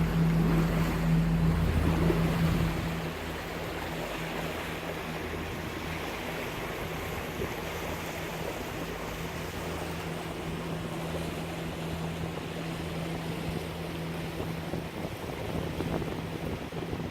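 A catamaran's engine hums steadily under the rush of water and wind on the microphone. The louder, deeper part of the engine drone falls away about three seconds in, leaving a lighter steady hum.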